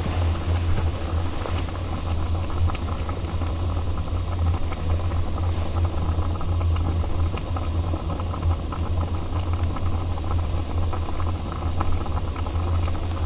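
Campfire crackling in small ticks over a steady low hum, recorded through a damaged microphone.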